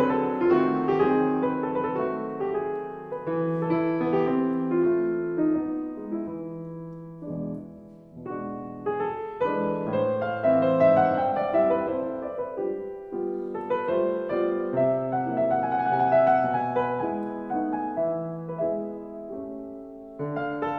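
Soft background piano music, a slow flowing melody of held notes that thins out briefly about eight seconds in before picking up again.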